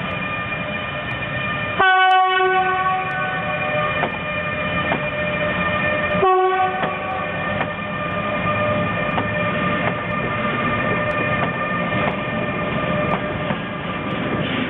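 Electric locomotive horn sounding two short blasts, about two and six seconds in, the second shorter. Between and around them the train runs on with a steady electric whine and rumble and some faint wheel clicks.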